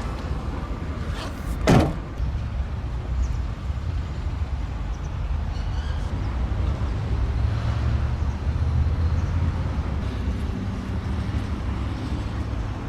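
A car door being shut with one loud thud about two seconds in, over a steady low rumble.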